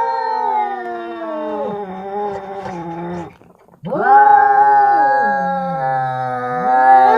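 Two tomcats caterwauling at each other in a fight standoff: long, drawn-out yowls. One wail breaks off a little past three seconds in, and a new one starts about half a second later, with a second, lower voice sliding down and back up beneath it.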